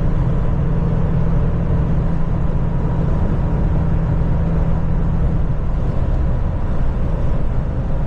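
Kenworth semi-truck cruising at steady speed: an even engine drone and road noise heard from inside the cab.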